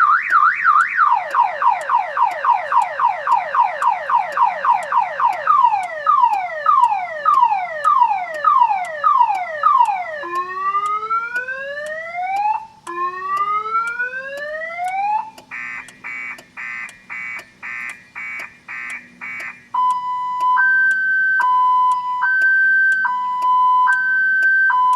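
2000 Chevrolet Impala's car alarm siren going off, cycling through its tones: a fast warble, then falling sweeps that slow down, two long rising whoops, a run of rapid beeps, and finally a two-tone high-low alternation about once a second. It sounds with the key at on while the car will not crank, which the owner thinks comes from unlocking with the key after locking with the fob.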